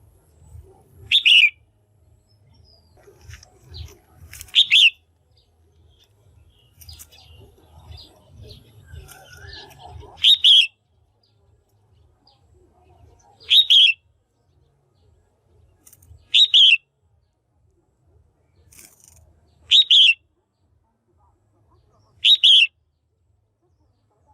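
Female red-whiskered bulbul giving short, loud, clear calls, one about every three seconds, seven in all. This is the female call used to stir up males or lure them to a decoy.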